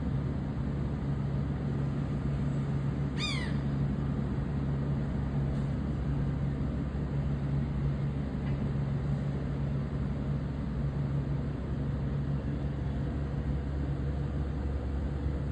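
Steady low mechanical drone, with a single short falling bird call about three seconds in.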